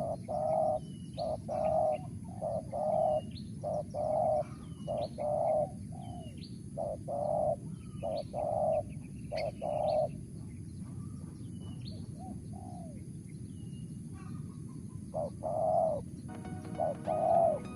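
Spotted dove cooing in a fast run of short, evenly repeated coo notes, pausing for a couple of seconds after the middle, with sharp high chirps from another bird above it. Music comes in faintly near the end.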